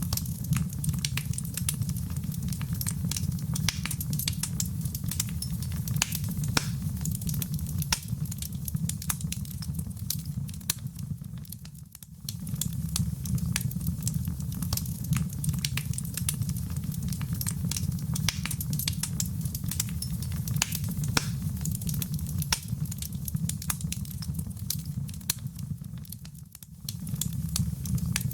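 Fire burning in a fireplace: a steady low rumble of flames with frequent sharp crackles and pops. The sound dips briefly twice, about twelve seconds in and near the end.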